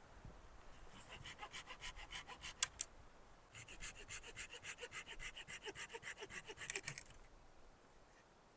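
Hand saw cutting through wood with quick back-and-forth strokes, in two runs with a short pause a little under three seconds in, stopping about seven seconds in.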